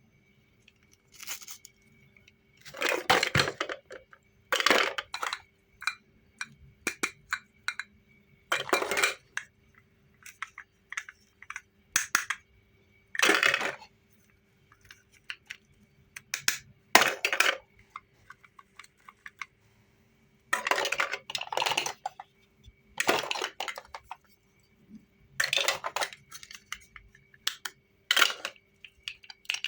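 Close-miked eating of bottle candy: irregular crunches and sharp clicks and clinks from biting, chewing and handling the candy and its plastic bottle, with short pauses between.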